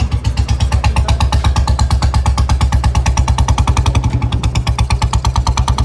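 Old-model Royal Enfield Bullet 350 Standard single-cylinder engine running through its stock exhaust, firing in a rapid, even beat that holds steady throughout.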